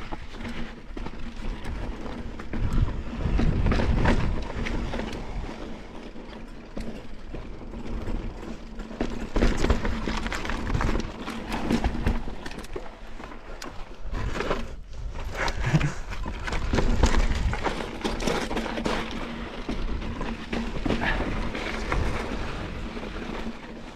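Mountain bike being ridden over slickrock: an irregular clatter of knocks and rattles from the bike over a steady rumble.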